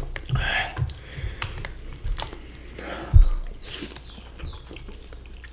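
Close-miked chewing of breaded meat parmigiana in tomato sauce and cheese: a run of wet mouth clicks and smacks. A single dull low thump, the loudest sound, comes about three seconds in.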